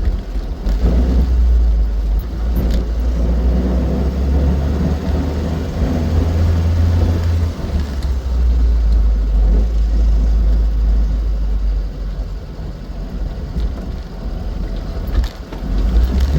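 Austin 7 Ruby's small side-valve four-cylinder engine running while the car drives along, with a heavy low rumble of engine and road noise.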